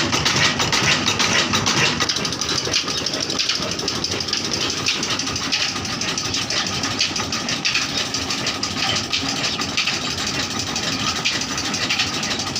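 Old black engine of a village tube well running steadily with a rapid, even chugging beat.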